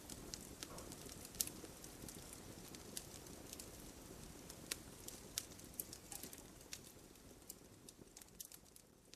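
Wood campfire burning, with sharp, irregular crackles and pops of the burning wood over a faint, steady low rush of the flames, a little quieter near the end.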